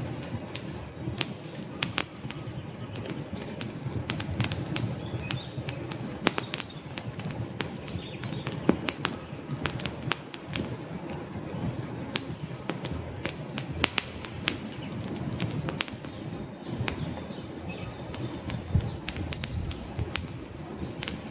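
Wood campfire burning: a steady low rush of flames with frequent sharp crackles and pops from the burning logs.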